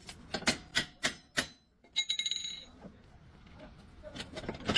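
Metal parts or tools knocking and clinking, a quick run of sharp taps, then one strike about two seconds in that rings briefly with a bell-like metallic tone, and a few more taps near the end.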